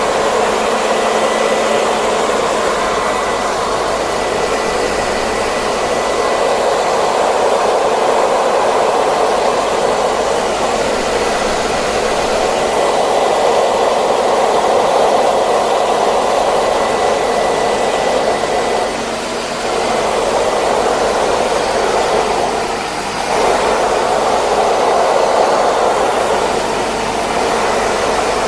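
Hair dryer running steadily: a continuous rushing blow with a faint high whine that fades out about two-thirds of the way through. The sound dips briefly twice near the end.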